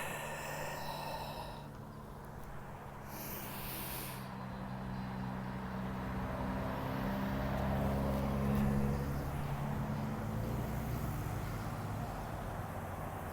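A motor vehicle passing on the road close by: an engine hum that builds to its loudest about eight or nine seconds in, then fades. A short breathy hiss comes about three seconds in.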